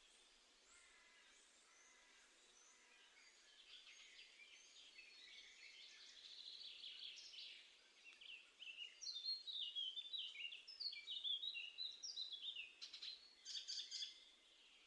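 Small songbirds chirping and twittering in a quick run of short, high, falling notes. It builds over the first half and is loudest in the second half, then stops shortly before the end.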